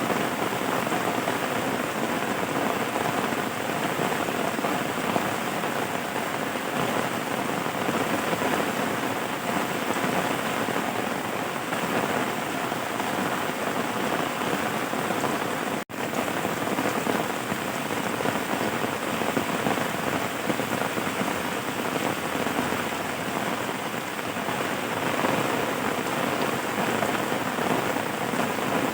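Steady rain falling, a dense, even patter with no let-up, broken by a split-second gap about halfway through where the recording cuts.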